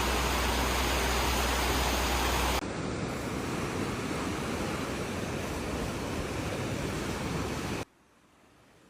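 Loud, steady rushing of floodwater from overflowing rivers. It cuts to a second, slightly quieter stretch of rushing about two and a half seconds in, then drops to a faint hiss near the end.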